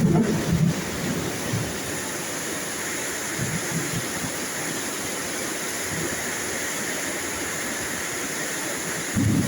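Steady rain hiss with low rumbles of thunder, one fading in the first second and another building near the end.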